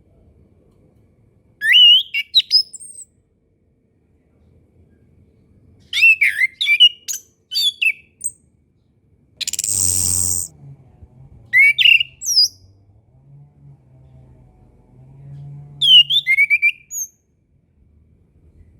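Chestnut-capped thrush (anis kembang) singing in four short phrases of rapid, gliding whistled chirps. A loud harsh rasping sound of about a second comes about halfway through.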